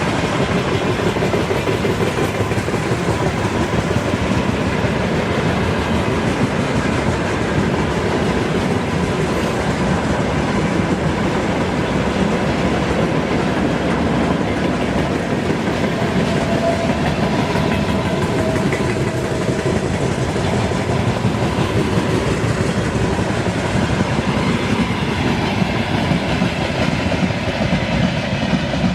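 Freight train wagons rolling past close by, their wheels clattering steadily over the rail joints.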